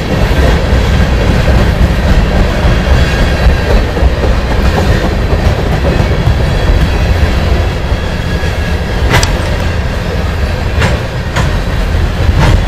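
Train rolling past, a steady loud rumble of wheels on the rails, with four sharp clicks in the last few seconds.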